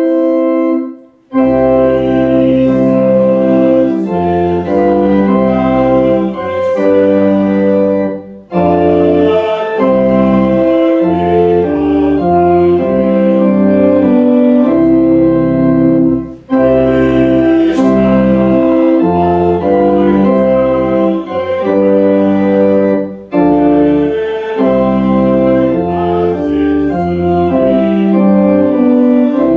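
Organ playing slow, sustained chords in phrases, each phrase broken by a short pause about every seven or eight seconds.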